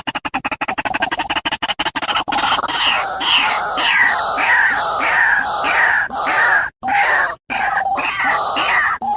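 About two seconds of rapid pulsing, then a bird calling over and over with short, harsh falling calls, about two a second, broken by a few sudden cuts.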